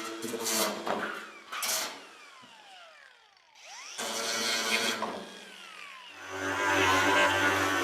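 A handheld power tool runs, then spins down with a falling whine and goes nearly quiet, and starts again briefly. From about six seconds in, background music with a steady low beat takes over.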